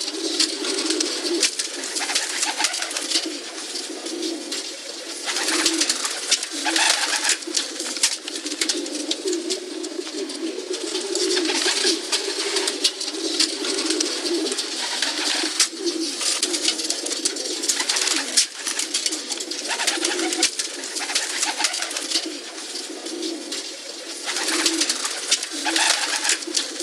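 Pigeons cooing without a break, several voices overlapping in a low, continuous burble, with frequent clicks and rustling over it.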